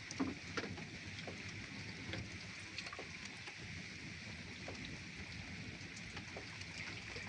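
Steady rain with scattered drips and taps of drops landing on nearby surfaces.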